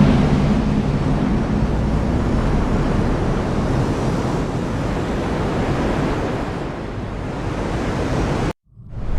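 Heavy rain falling steadily, a dense even hiss with a low rumble underneath. Near the end it cuts out abruptly for about half a second, then fades back in.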